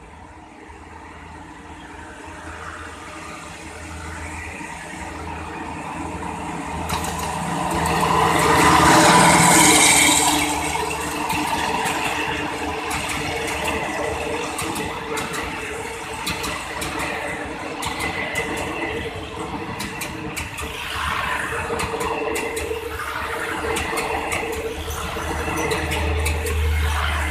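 Alsthom diesel-electric locomotive 4151, fitted with a Caterpillar engine, pulls a passenger express closer and past; its engine noise builds to a peak about nine seconds in. The coaches then roll by steadily, their wheels clicking over the rail joints.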